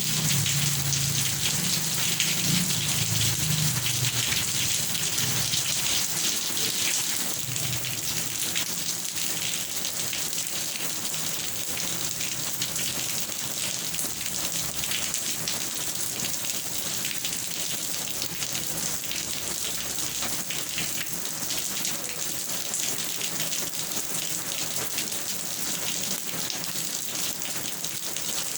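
Steady heavy rain falling and pattering on surfaces, a dense hiss of fine drop impacts. A low rumble underneath fades out over the first few seconds.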